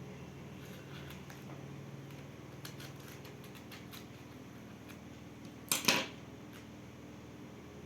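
School supplies and their packaging being handled: scattered small clicks and taps, then one louder, brief burst of noise lasting under half a second, about six seconds in.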